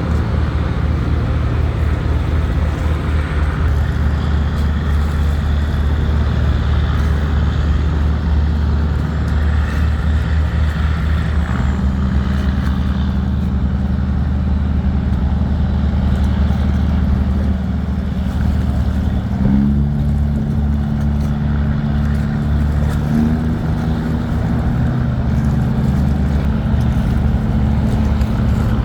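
Heavy diesel engine of a river tugboat running steadily under load, with its note shifting in pitch a few times partway through.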